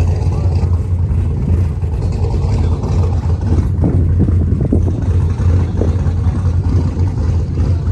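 Steady low rumble of a car engine running, with a few brief lighter sounds around four to five seconds in.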